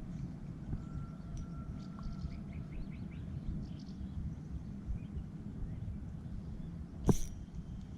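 Faint bird chirps over a steady low outdoor rumble, with one sharp click about seven seconds in.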